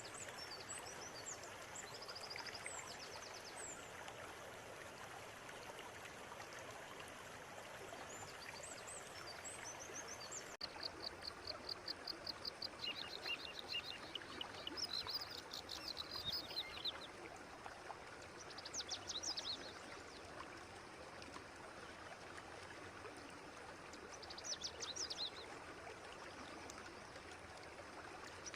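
A clear river running with a steady rush, with birds calling over it. Their calls grow louder about ten seconds in, as runs of quick repeated high notes, and come back in short bursts every few seconds after that.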